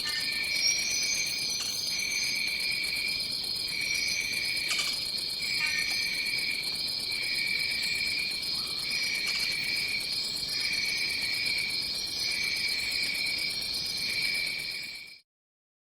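Rainforest night chorus of insects: a steady high-pitched drone with a lower chirping note that pulses on and off about once a second, and a few short higher calls over it. Near the end the sound cuts out completely for about a second and a half.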